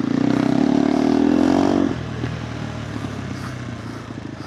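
KTM 390 Adventure R's single-cylinder engine through a Norifumi Whoops stainless slip-on exhaust, accelerating with a rising note for about two seconds. The throttle then shuts suddenly and it drops to a quieter, uneven off-throttle running.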